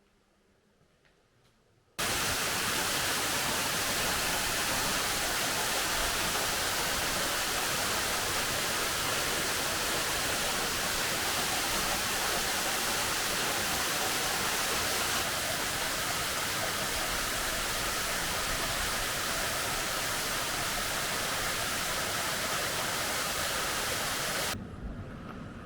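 Steady rushing noise of falling water, starting abruptly about two seconds in and cutting off shortly before the end.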